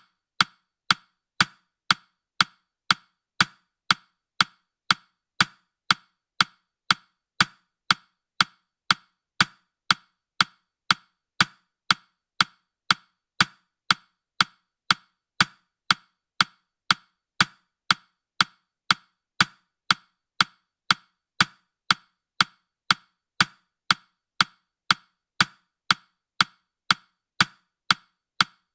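Countdown timer's ticking sound effect: sharp, woody clock ticks at an even beat of about two a second.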